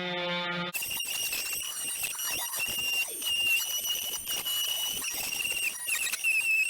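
A power tool cutting into the wall: a steady motor buzz gives way, under a second in, to gritty cutting noise with a steady, slightly wavering high-pitched whine.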